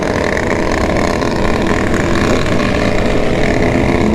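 Several motorcycle engines running together at close range, their overlapping exhaust notes steady with small rises and falls in revs.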